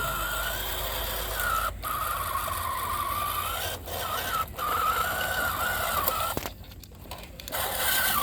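Homemade miniature tractor's small motor whining as it works, its pitch wavering up and down with the load. The whine breaks off briefly a few times and drops away for about a second near the end.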